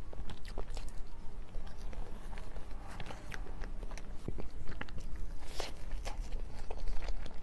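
Close-miked eating sounds of someone chewing soft crepe cake: irregular wet mouth clicks and smacks.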